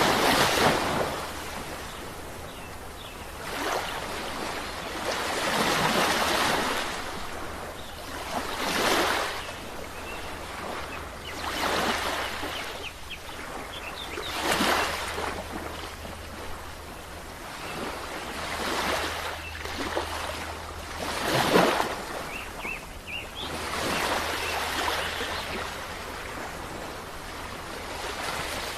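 Ocean waves breaking and washing up on shore, one surge of surf swelling and falling back about every three seconds, some louder than others, over a steady low rumble.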